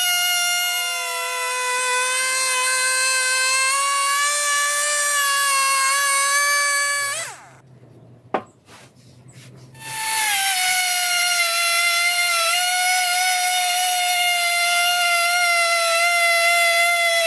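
Chainsaw on a Logosol log mill running at full throttle as it rips along the log. About seven seconds in it drops away to a faint low idle with a single click, then comes back up to speed for the rest of the cut.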